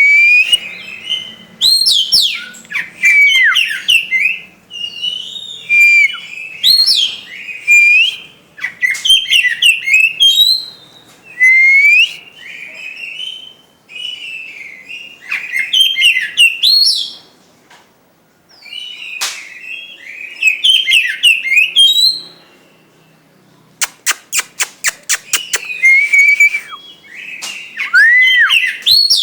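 Oriental magpie-robin (kacer) singing loudly: a string of varied whistled phrases that glide up and down, broken by short pauses, with a fast run of sharp clicking notes about two-thirds of the way through.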